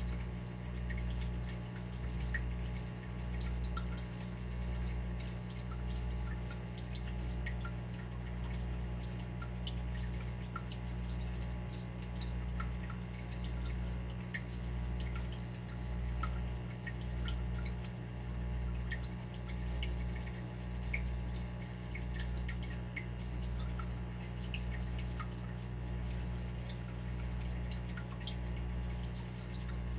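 Water dripping and trickling, many small scattered droplet ticks, over a steady low hum that swells and fades about once a second.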